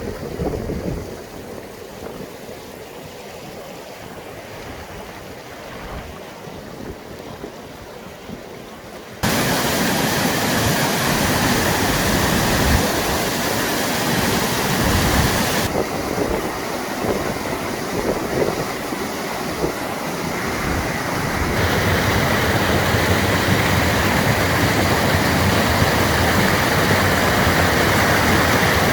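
Steady rushing noise of heavy rain and strong wind, in several clips that change abruptly about 9, 16 and 22 seconds in; the first stretch is quieter than the rest.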